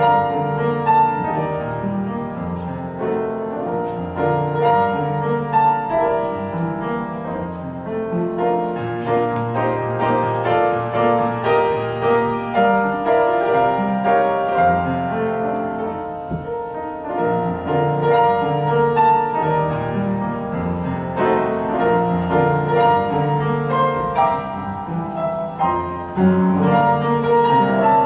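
Solo piano music playing a steady, continuous classical-style piece.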